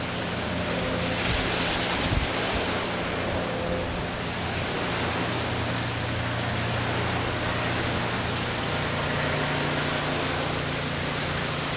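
Hurricane wind with rain, a steady rushing noise that swells in a stronger gust about one to two seconds in.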